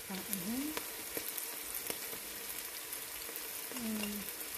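Chopped onions, tomatoes and green chillies sizzling in hot oil in a non-stick pan, with a steady hiss and scattered sharp crackles. Two short wavering tones, one in the first second and one near the end.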